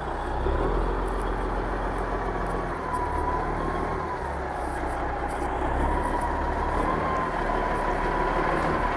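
Motor vehicle engine running steadily with a low rumble, and a thin wavering whine over it.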